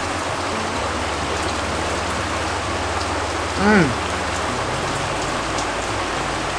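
Steady rain falling, an even hiss. A little past halfway, a short falling vocal sound from a person stands out above it.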